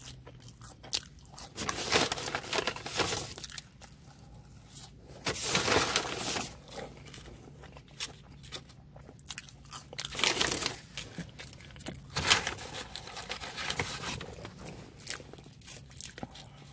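Close-up chewing and biting of fast-food French fries, coming in several loud crunching spells with quieter stretches between.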